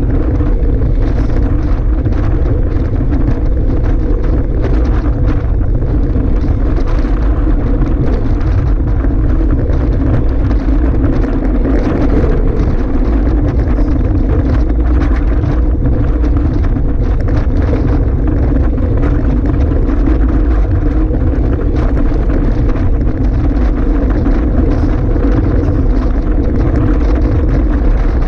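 Strong wind buffeting the microphone: a loud, steady, heavy rumble.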